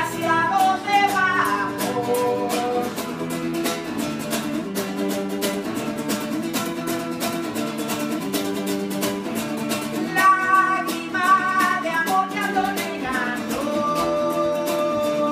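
Live acoustic music: strummed guitar chords holding a steady accompaniment, with a melody line over them near the start and again from about ten seconds in.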